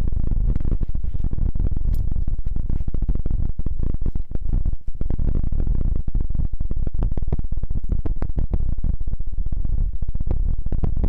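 Continuous close-up rubbing and scratching right on a microphone, dense fine crackle over a deep rumble.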